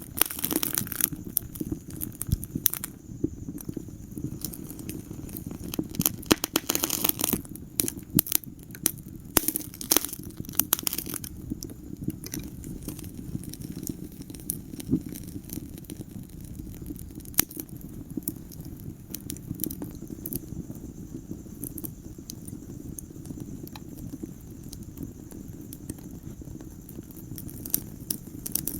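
Wood fire burning in a fireplace: a steady low rumble of the flames with sharp crackles and pops, thick in the first ten seconds or so and then more scattered.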